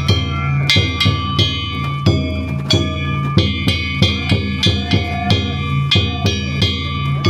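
Danjiri festival music (danjiri-bayashi): a taiko drum beaten in a steady, driving rhythm, with small metal gongs ringing over it.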